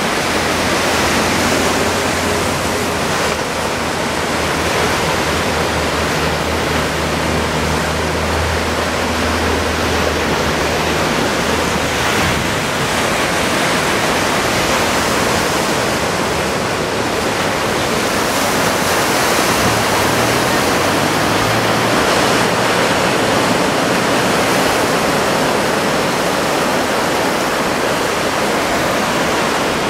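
Ocean surf: a steady loud wash of waves breaking and rolling onto the shore, typhoon swell. A faint low hum sits under it for the first dozen seconds and briefly again later.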